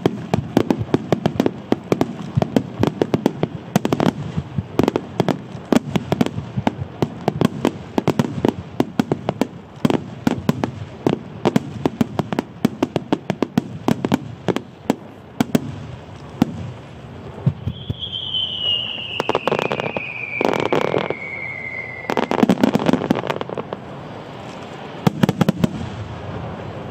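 Starmine fireworks barrage: shells launching and bursting in rapid succession, several sharp bangs a second. About two-thirds through, a long whistle falls slowly in pitch, followed by a few heavier bursts.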